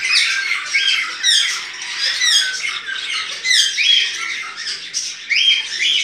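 Caged songbirds calling and chirping without a break: many quick, sharply falling chirps and squawks overlap.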